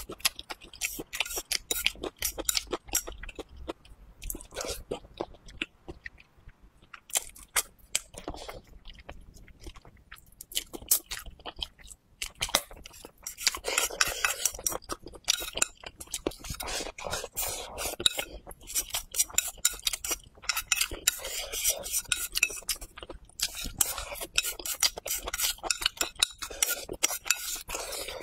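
Close-miked chewing of braised pig's trotter and rice, a dense run of irregular wet clicks and crackles, with chopsticks tapping and scraping a glazed ceramic bowl.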